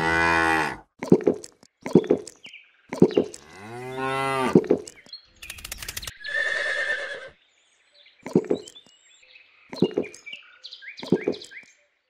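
Cow mooing: two long moos about four seconds apart, then a shorter, harsher call about six seconds in. Short sharp knocks are scattered through the rest.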